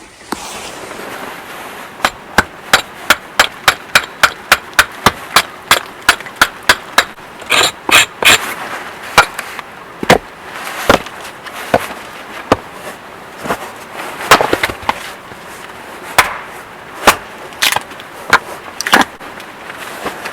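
Firewood being chopped and split into kindling: sharp blows of a blade on wood, a quick run of two to three strikes a second at first, then slower and irregular.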